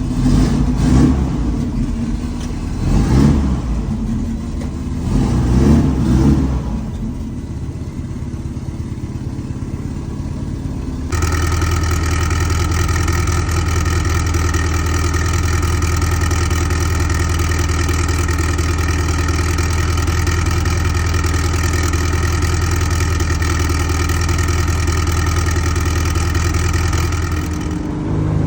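Turbocharged VW Beetle engine revving up and down several times, then changing abruptly about eleven seconds in to a steady, even note that holds for about sixteen seconds.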